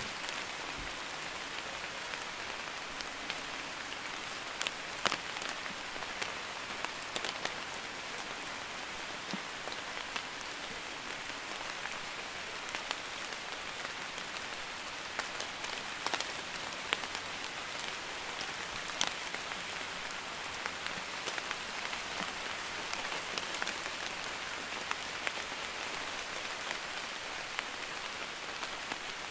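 Steady drizzle: an even hiss of light rain, with scattered single drops striking a little louder.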